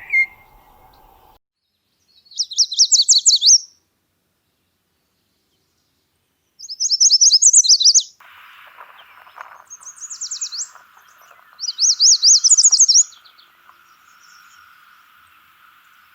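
A songbird singing: a short, high, rapid trilled phrase of about a second, repeated about five times with gaps of a few seconds between.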